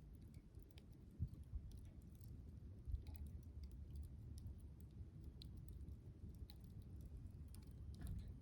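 Wood campfire crackling softly: scattered small pops and snaps over a low, steady rumble.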